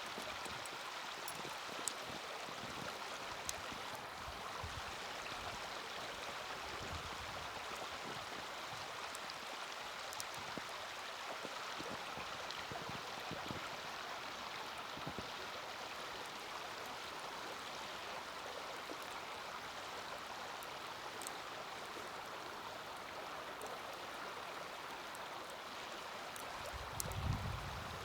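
Small wood fire burning in a mini fire stand, with a few faint sharp crackles over a steady rushing hiss; a dull low thump near the end.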